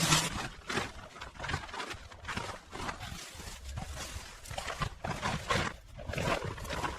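Pressure washer spray cutting off, followed by irregular short spurts of spray over a low rumble.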